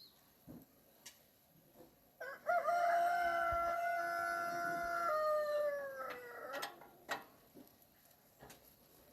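A rooster crowing once, a long call of about four seconds that rises quickly, holds steady, then falls away at the end. A few faint light clicks before and after it.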